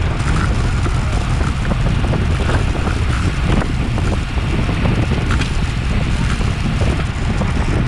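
Wind rushing over a bike-mounted action camera's microphone while riding a road bicycle at race speed: a steady, loud rumble with faint ticks mixed in.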